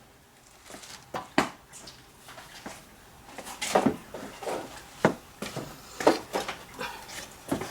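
Irregular clicks and knocks of hand tools being picked up and handled, about ten sharp taps over a few seconds.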